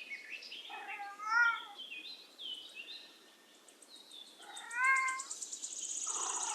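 Domestic cat meowing twice: two drawn-out meows, one about a second in and one near the five-second mark.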